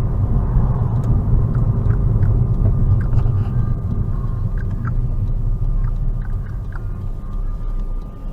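Car driving on the road, heard from inside the cabin: a steady low rumble of engine and road noise that eases off a little about halfway through.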